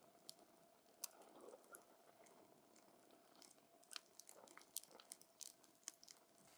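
Wood campfire crackling quietly: irregular sharp snaps and pops from the burning wood, a few louder ones about a second in and near the end, over a soft hiss and a faint steady hum.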